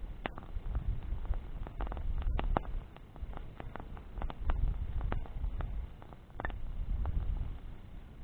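Bonfire of burning branches crackling, with many scattered sharp pops and snaps over a low rumble that swells and fades every couple of seconds.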